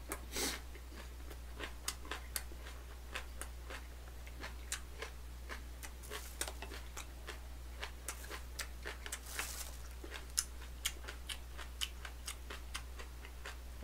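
A person chewing a mouthful of oyster bossam wrap, with irregular crisp crunches and mouth clicks, over a faint steady low hum.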